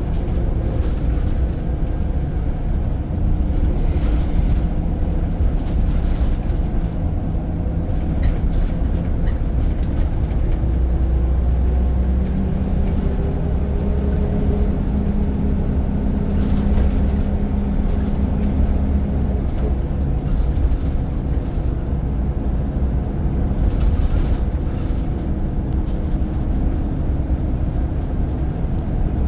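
Scania N94 single-decker bus under way, heard from on board: its diesel engine runs with a deep steady rumble, and the engine note climbs about twelve seconds in and drops back some seven seconds later. Scattered rattles and knocks come from the bodywork.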